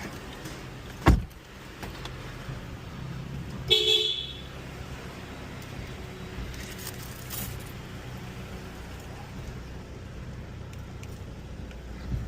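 A car door shuts with a loud thump about a second in, then a short horn toot a few seconds later, over the Honda CR-V's engine running steadily at idle.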